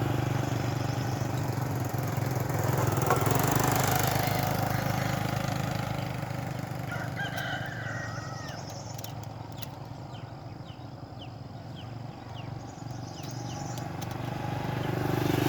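A small engine hums steadily and fades through the middle, while short, faint high bird chirps come through in the second half.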